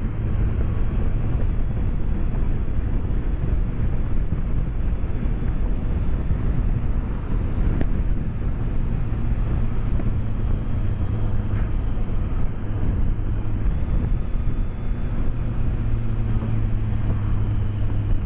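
BMW K1200S inline-four engine droning steadily under way, mixed with wind and road rush, heard through a microphone inside the rider's helmet. The engine note dips slightly a little past the middle and then returns.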